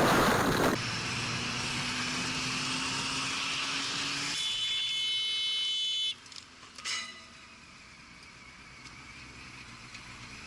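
Car dashcam audio of road and engine noise: a loud burst of noise at the start, then steady driving noise. About four seconds in, a high alarm-like tone sounds for nearly two seconds and cuts off suddenly, and the rest is quieter road noise.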